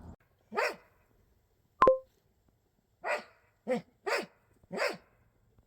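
Small dog barking: one bark, then four more in quick succession about a second and a half later. Between the first two barks comes one short, sharp ping with a clear tone.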